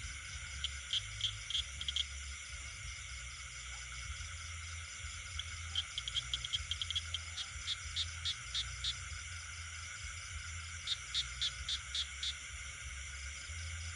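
Night chorus of frogs and insects: a steady, high-pitched insect trilling throughout, broken three times by runs of short, sharp calls repeated several times a second.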